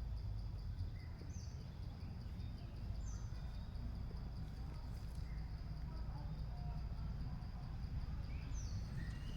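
Steady low rumble with a constant high-pitched insect-like drone and a few short, scattered chirps.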